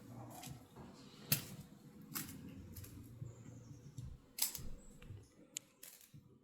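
Scattered light clicks and rustling, four or five sharp ticks over a faint low rumble, typical of handling noise from a phone or camera being moved while filming.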